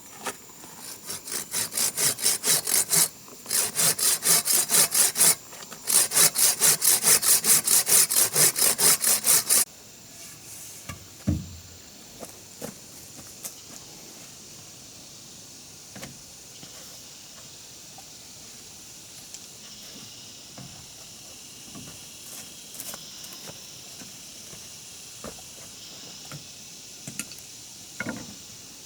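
Hand saw cutting through wood in three bouts of quick, even back-and-forth strokes, about three or four a second, stopping about ten seconds in. A few light knocks and taps of wood follow.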